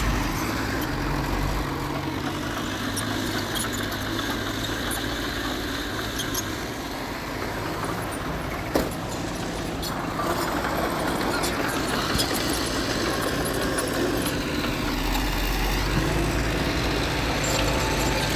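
Heavy diesel earthmoving machinery running steadily. The deep engine rumble drops back about two seconds in and builds again near the end, with a single sharp knock about nine seconds in.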